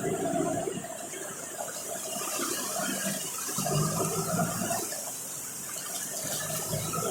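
Steady hiss of rain and water, with louder low rumbling patches near the start, in the middle and near the end.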